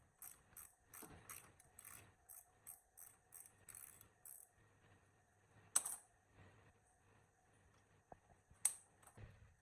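Faint mechanical clicking, like a ratchet, about three clicks a second for roughly four seconds, then two sharper, louder clicks a few seconds apart.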